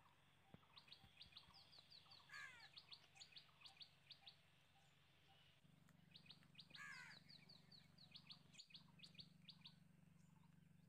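Faint birdsong: runs of quick, high chirps repeated many times, with a falling whistled phrase about two seconds in and another about seven seconds in, over a steady low hum.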